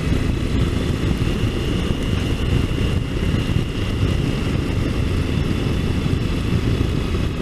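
Triumph Tiger motorcycle on the move, its engine running steadily under heavy wind rush on the microphone.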